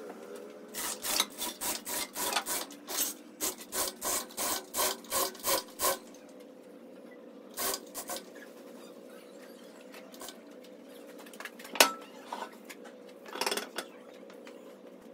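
A hand tool worked back and forth on wood in quick strokes, about three or four a second, which stop about six seconds in; a few single strokes follow, and a sharp knock, the loudest sound, comes near the end.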